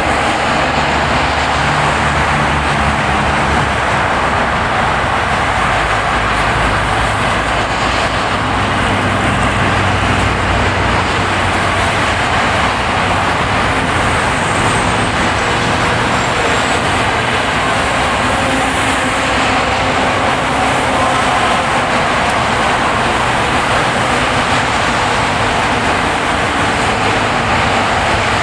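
A car driving on a ploughed, snowy road: a steady, loud rush of tyre and road noise with the engine running underneath.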